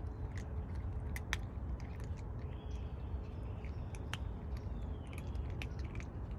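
Cats crunching dry food: irregular crisp crunches and clicks, with a steady low rumble underneath and a few faint high chirps.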